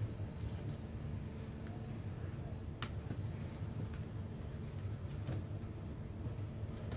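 Scattered light clicks and taps over a steady low hum, with one sharper click about three seconds in.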